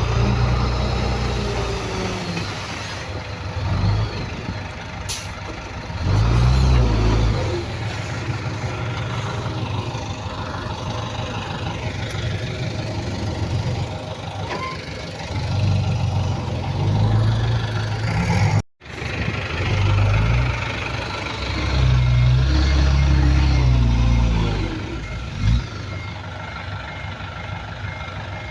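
Heavy diesel earthmoving machinery working, the engines rising and falling under load in repeated surges. A reversing alarm beeps steadily near the end.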